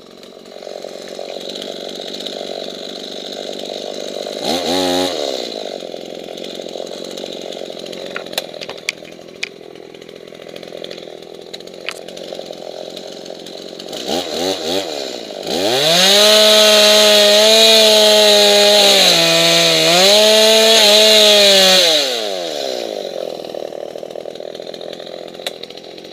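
Two-stroke chainsaw idling, revved briefly about five seconds in, then held at full throttle for about six seconds with a short dip in pitch partway through, before winding back down to idle.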